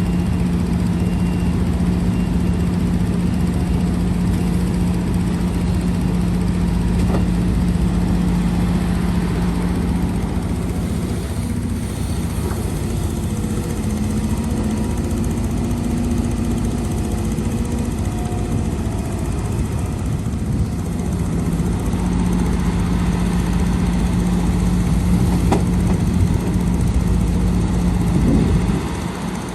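Heavy diesel engine of earthmoving machinery running with a steady low hum. Its note breaks and shifts higher for several seconds in the middle, then settles back, and it drops away just before the end.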